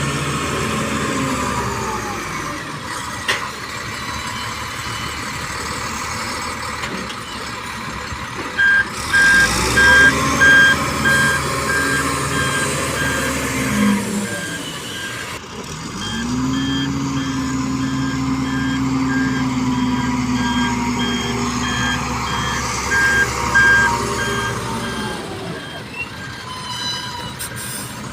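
Heavy truck engine running and revving up and down, with a reversing alarm beeping at a regular rapid rate from about a third of the way in until near the end.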